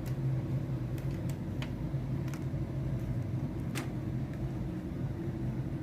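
Steady low background hum, with a few light clicks as small parts are handled, here the ribbon cable and its connector being fitted.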